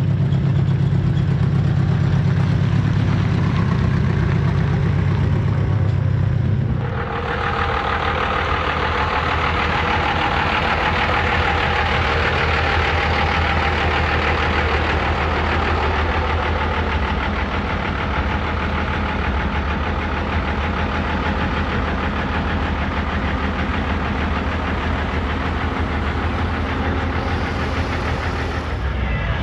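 Truck engine idling with a steady low hum. About seven seconds in, the sound changes abruptly to a different engine sound with more hiss, over a steady low rumble.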